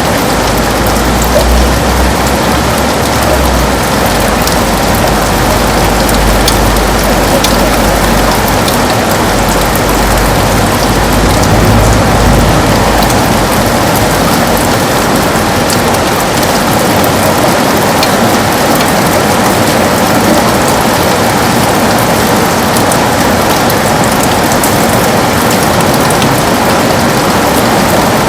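Heavy rain falling on a window: a steady, dense hiss with scattered sharp drop hits. A low rumble runs underneath for roughly the first twelve seconds, then fades away.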